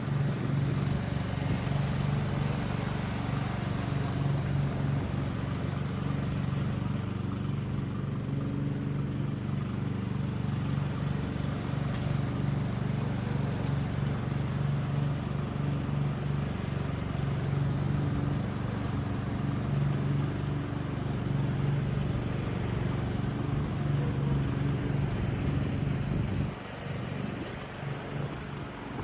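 Riding lawn mower's single small petrol engine running steadily, its replacement engine taken from a Stiga Villa. It turns quieter and lower about three seconds before the end.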